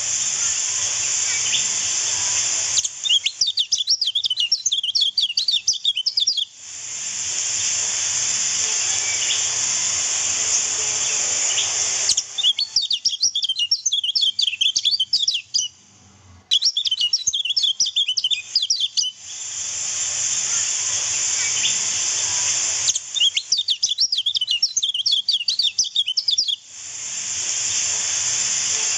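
Lemon-bellied white-eye song: rapid, high twittering chirps in bursts of a few seconds, four times. Between the bursts the song cuts off sharply to a steady hiss.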